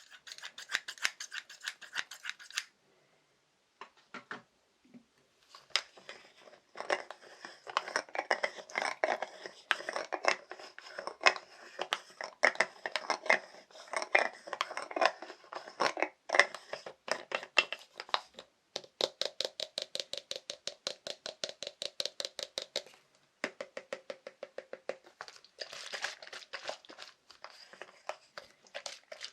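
Fast tapping on assorted small objects: rapid runs of sharp taps, many a second. It stops briefly about three seconds in, then moves between objects with different ringing tones.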